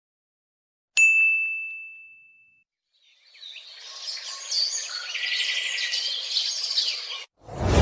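A single bright ding sound effect that rings out and fades over about a second and a half, followed after a short pause by a sound effect of birds chirping for about four seconds that cuts off abruptly. A new whooshing sound begins right at the end.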